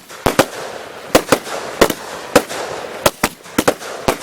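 Multi-shot consumer firework cakes firing: about a dozen sharp, irregularly spaced bangs in four seconds, with crackle between them.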